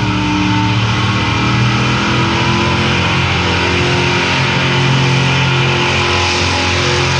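Competition pulling tractor's engine running flat out under full load as it drags the weight sled down the track, a loud, steady, even drone with no break.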